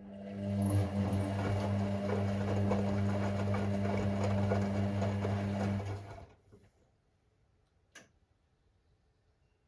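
Hoover Six Sportswear 1300 (AI130) washing machine's motor turning the drum with a steady hum for about six seconds, then stopping, followed by a single click in the pause. This run-and-pause pattern is the drum tumbling the wash load during the cycle.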